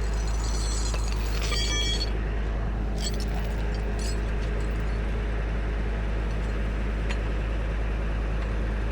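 Tow truck's engine idling steadily. A brief metallic clinking, as of a tow chain being handled, comes about one and a half seconds in.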